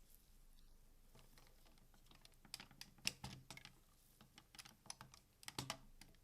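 Hard plastic parts of a DX Seiku-Oh combining robot toy clicking and clacking as it is handled: a run of faint small clicks, loudest about three seconds in and again near the end.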